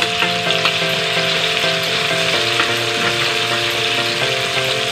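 Tomatoes, onions, ginger and garlic sizzling in hot oil in a wok, stirred with a metal slotted spatula that ticks and scrapes against the pan. Background music with held chords plays underneath.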